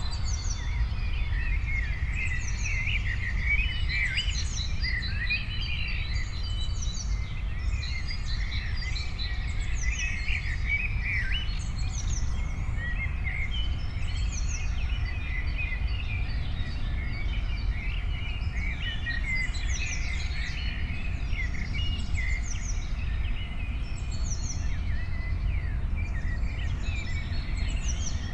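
Several songbirds chirping and calling continuously in a busy, overlapping chorus of short chirps and quick falling whistles, over a steady low outdoor rumble.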